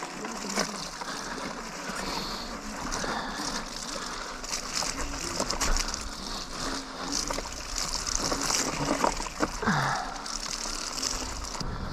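Electric unicycle tyres rolling through wet snow and slush: a steady splashy hiss with scattered small crunches and clicks.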